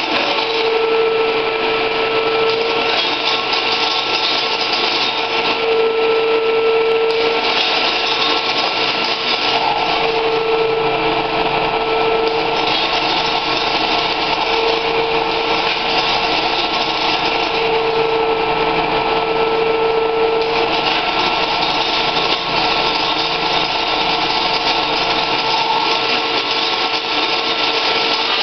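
Sheet-metal edge-curling machine running steadily, with a hum that swells in and drops out about five times over the stretch.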